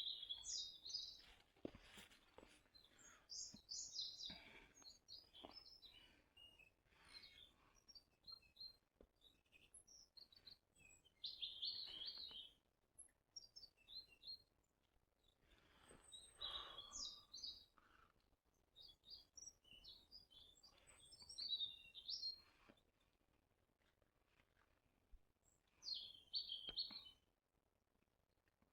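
Small songbirds chirping and singing in short bursts of high, quick notes every few seconds, with quiet stretches between.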